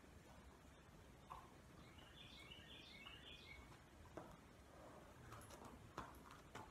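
Near silence: faint room tone with a small bird singing a quick run of high chirps about two seconds in. A few faint knocks follow near the end.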